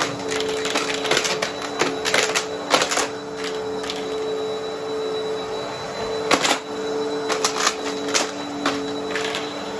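Vacuum cleaner running with a steady motor hum while coins are sucked up, clattering and clinking through the nozzle and hose in irregular flurries, with a sparser stretch around the middle.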